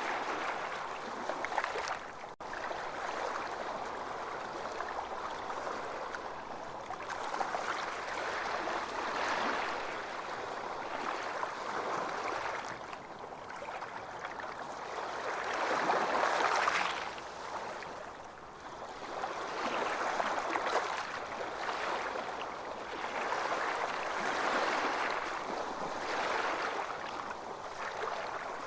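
Ocean waves washing onto a beach, surges swelling and fading every few seconds, the biggest about two-thirds of the way through.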